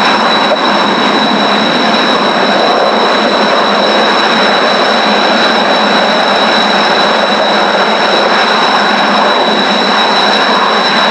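Kawasaki T-4 jet engines running close by on the ground: a steady, loud rushing noise with a level high-pitched turbine whine.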